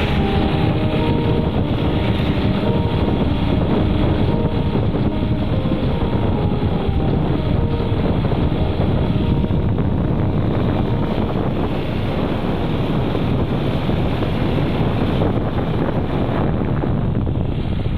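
Steady rush of a moving vehicle, with wind buffeting the microphone. A few steady tones sound in the first half and fade out.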